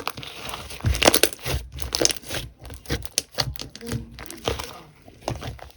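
Slime being squeezed and pressed by hand, giving irregular crackling and popping sounds.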